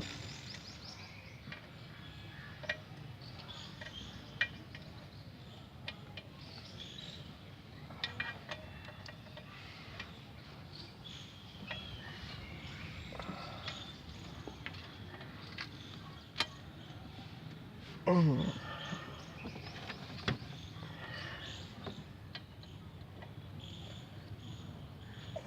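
Scattered sharp metallic clicks and taps of hand tools as the clutch pressure plate bolts are tightened onto the flywheel, over steady background noise. About eighteen seconds in, a louder short sound falls in pitch.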